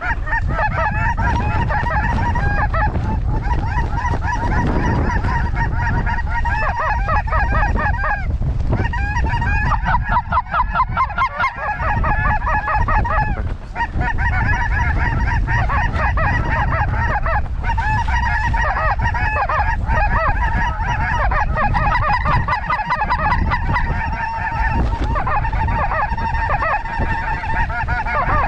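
A dense, continuous chorus of snow goose calls, many birds calling over one another, over a low rumble of wind on the microphone.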